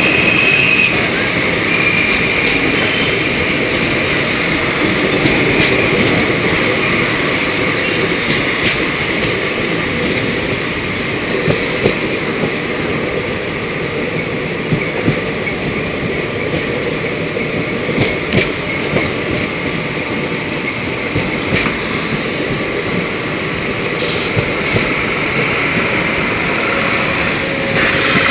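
Indian Railways passenger train running, heard from an open carriage door: a steady noise of wheels on rails, with scattered sharp clicks.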